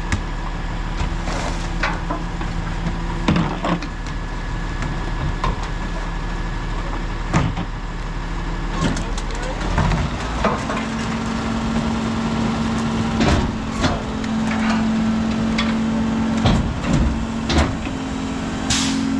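Autocar ACX split Heil rear-loader garbage truck running, with repeated clanks and knocks as refuse is loaded by hand. About ten seconds in, the engine speeds up and holds a steady higher note, typical of the rear packer's hydraulics being driven.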